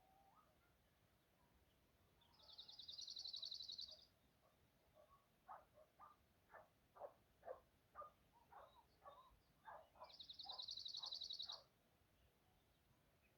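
Birds calling in quiet open country: two high, fast buzzy trills, each lasting under two seconds, one a couple of seconds in and one near the end. Between them comes a run of short, lower call notes at about two a second.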